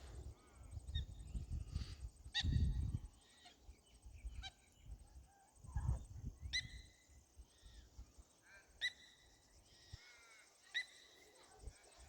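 Waterbirds giving short, sharp honking calls a few seconds apart, among softer bird chatter, over a faint steady high buzz of cicadas. Low rumbles come and go in the first half.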